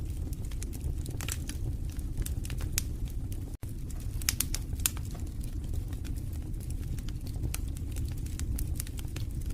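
Wood fire burning in a fireplace: a steady low rumble of flames with frequent sharp crackles and pops from the burning logs. The sound cuts out for an instant about three and a half seconds in.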